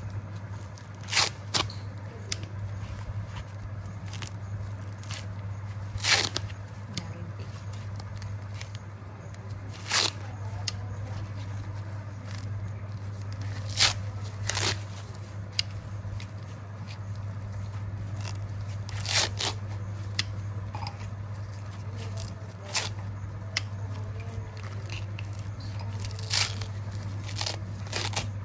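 A coconut's husk being chopped and torn open: sharp strikes come at irregular intervals, with crunching and tearing in between, over a steady low hum.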